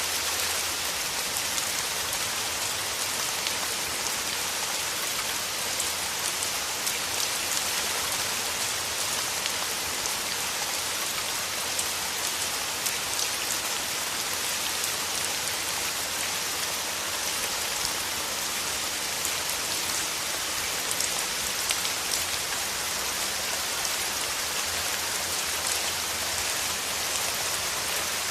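Steady rain falling through forest trees, a dense even hiss with many small drop ticks throughout.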